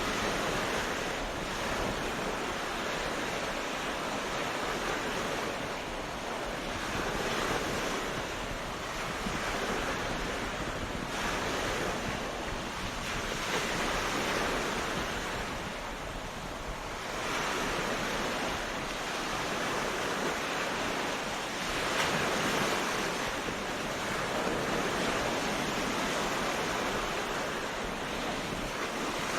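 Ocean surf breaking on a beach: a continuous wash of waves that swells and recedes every few seconds.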